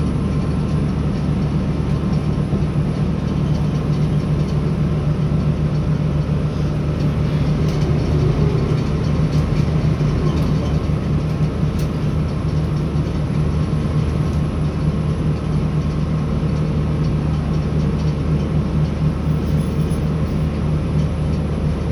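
Cabin of a Northern Ireland Railways CAF 3000 class diesel multiple unit running at speed. A steady low drone from the underfloor engine mixes with the continuous rumble of wheels on rail.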